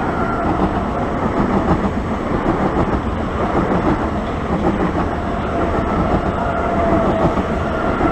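Electric multiple-unit passenger train running along the platform, its wheels clattering rhythmically over the rail joints, with a steady whine over the rumble.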